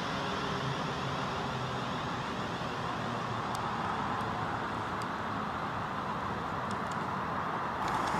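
London Midland Class 350 electric multiple unit running past and away, a steady rumble of wheels on rail with a few faint clicks.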